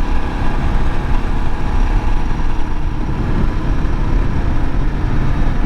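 Suzuki DR650's single-cylinder four-stroke engine running steadily under way, heard from the bike along with wind rush on the microphone.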